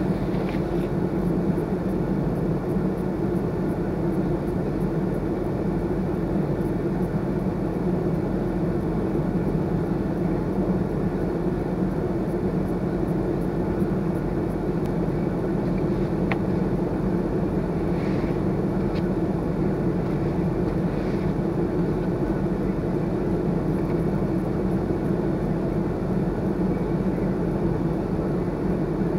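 Car engine idling steadily, heard from inside the cabin while the windshield defrosts, a constant low hum.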